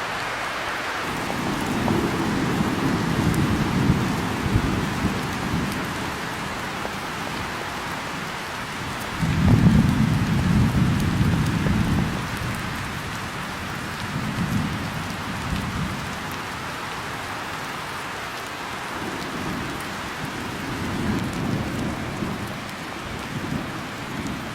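Steady heavy rain with rolling thunder: several low rumbles come and go over it, the loudest starting suddenly a little before halfway and lasting a few seconds.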